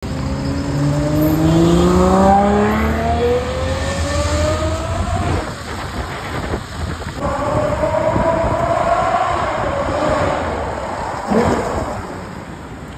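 Ferrari 812 Superfast's naturally aspirated V12 accelerating hard, its pitch climbing as it revs, in two pulls. There is a short sharp crack about eleven seconds in.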